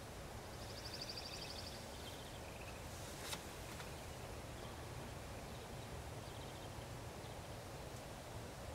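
Faint outdoor ambience with a steady low hiss. About half a second in comes a high, rapid bird trill lasting a little over a second, with a fainter one later. A single sharp click sounds about three seconds in.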